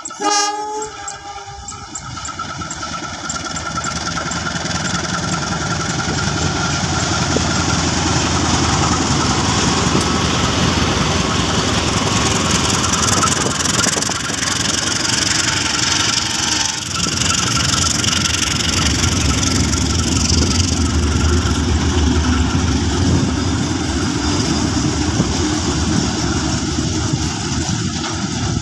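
Diesel locomotive on a freight train sounds a short horn blast as it approaches, then passes close by at speed: engine running and the steady rumble and clatter of the wagons' wheels on the rails as they roll past.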